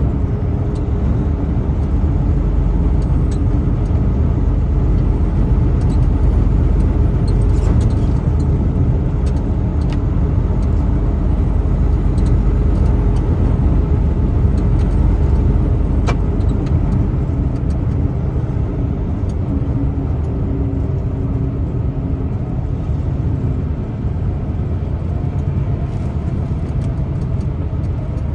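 A truck driving along: a steady low rumble of engine and road noise, with no real change in pace.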